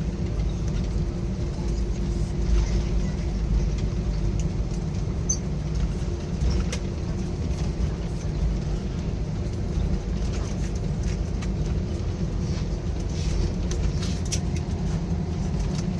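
Airliner cabin noise: a steady low rumble of engines and airframe inside an AirAsia Airbus A320-family jet on the ground after landing, with a faint steady hum and a few light ticks.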